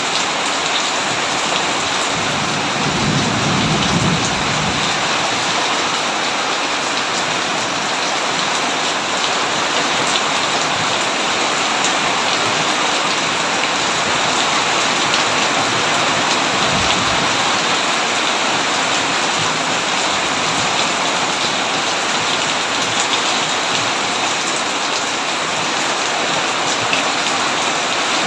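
Heavy rain falling steadily on a tin roof, a dense even hiss, with a brief low rumble of thunder about three seconds in.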